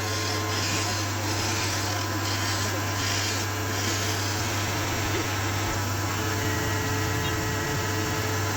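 Abrasive rubbing strokes, about two a second, over the first half, set against a steady low hum that runs throughout.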